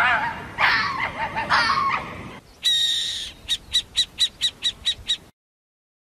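A fennec fox giving a few short, wavering whines in the first two seconds. Then an owl's high call: one long note followed by a quick run of about eight short notes, stopping about five seconds in.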